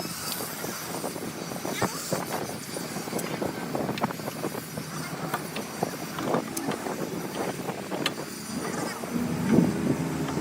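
Irregular metallic clinks and knocks, typical of hand tools working on engine parts, over a steady background hum.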